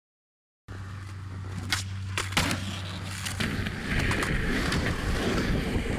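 Skateboards rolling with several sharp clacks, over a low steady hum; the sound cuts in suddenly a little under a second in.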